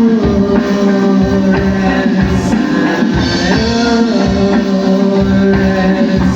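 Rock band playing live: guitars holding chords over a steady drum-kit beat.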